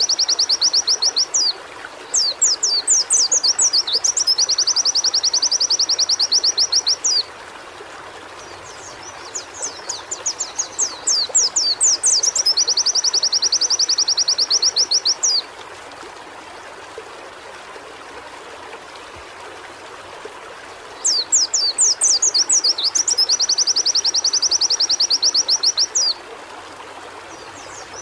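Pleci (white-eye) singing in repeated high phrases. Each phrase is a few separate chirps that run into a fast, even trill lasting several seconds, and the phrases are a few seconds apart, over a steady background hiss.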